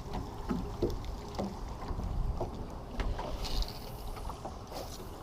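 Wind rumbling on the microphone over the small knocks and water sounds of an aluminum fishing boat drifting on a lake.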